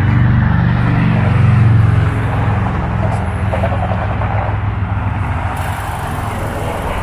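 Motor vehicle engine running close by, over steady road noise; it is loudest about a second and a half in, then holds steady.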